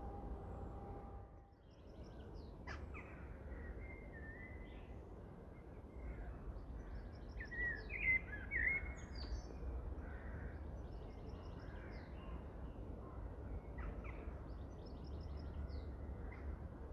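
Woodland birds singing and calling: short rapid high trills come every few seconds, and louder chirping calls come about eight seconds in, over a steady low rumble.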